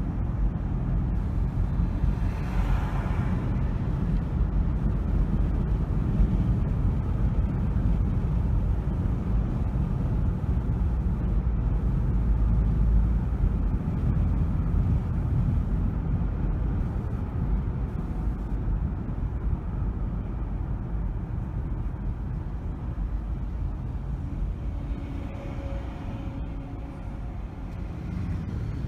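Steady low road and engine rumble of a car driving, heard from inside the cabin. About two to three seconds in, a brief higher hissing whoosh passes; near the end, faint steady tones sit over the rumble.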